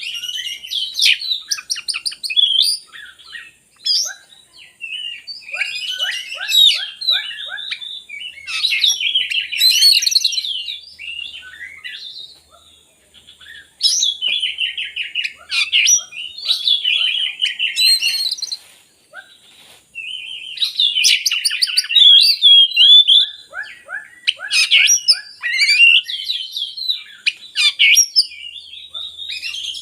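Oriental magpie-robin (kacer) singing: rapid, varied whistled phrases a few seconds long, separated by short pauses.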